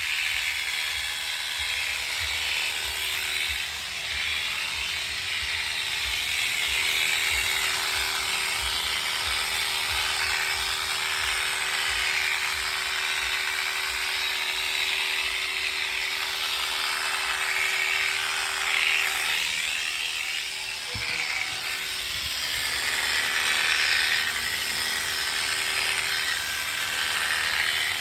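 Electric shearing clippers running steadily with a motor hum and a buzzing, cutting hiss as they work through a sheep's wool.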